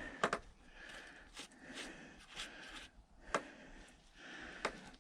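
Scattered light clicks and scrapes of hand-tool work on a small engine with a Phillips screwdriver, about half a dozen short separate sounds.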